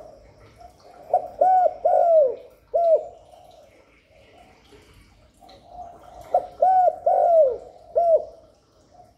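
Spotted dove cooing: two song phrases of about four coos each, each opened by a soft low murmur, used as a decoy call to draw wild doves in.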